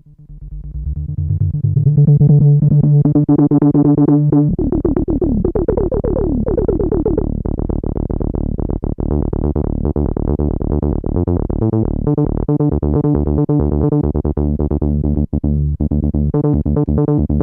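Behringer Odyssey analogue synthesizer playing: a held low note swells in, gliding notes sweep about five to seven seconds in, then a fast repeating run of short notes takes over.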